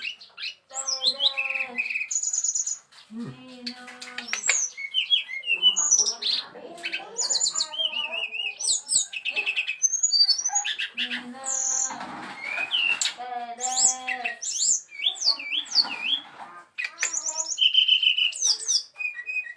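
Brown-chested jungle flycatcher singing a long, varied song of clear whistles, quick trills and chirps, with rising and falling slurred notes, almost without pause.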